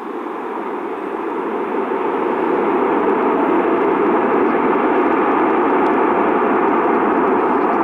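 Airbus A380 jet engines, a broad noise that swells over the first couple of seconds and then holds loud and steady.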